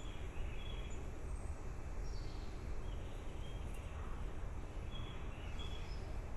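Faint short bird chirps, high and brief, scattered about once a second over a steady low rumble of background noise.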